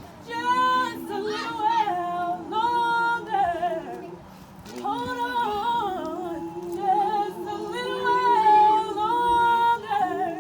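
Singing: a high female voice holds long notes with vibrato over a lower sustained voice, breaking off briefly about four and a half seconds in before carrying on.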